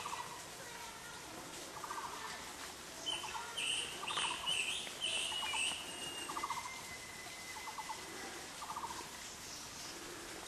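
Birds calling: short rapid rattling trills repeated about once a second, with a cluster of higher chirps in the middle and a thin whistle after them.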